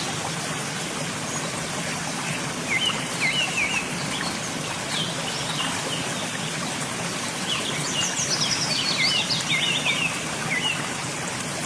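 Steady rush of water from a waterfall, with a bird's quick chirps twice, in short runs about three seconds in and again about eight to ten seconds in.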